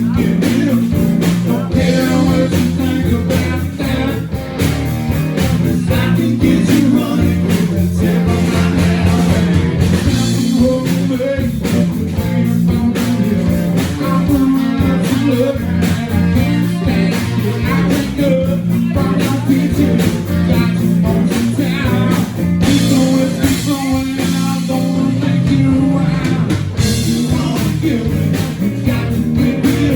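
Live blues-rock band playing a song: electric guitar over bass and drums with a steady beat, with singing at times.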